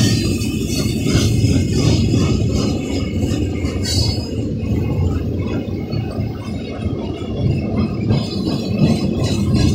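Freight cars of a loaded coal train rolling past at steady speed: a continuous low rumble of steel wheels on rail, with scattered clicks and rattles.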